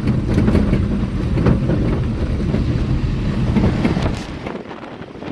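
Car driving along a road, heard from inside: a steady low rumble of engine and tyres with wind buffeting the microphone and a few faint knocks. The low rumble drops away sharply about four seconds in.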